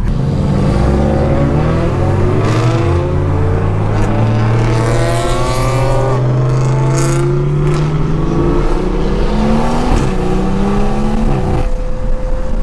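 Turbocharged inline-six cars accelerating hard side by side. The engines rev up in pitch through gear changes, then ease off near the end. Heard through an open car window, with wind noise.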